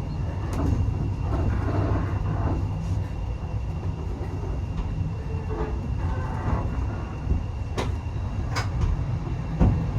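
Heritage railway coach running along the track, heard from inside the coach: a steady low rumble with a faint steady high whine, and a few sharp knocks from the wheels and rail joints, most of them in the second half.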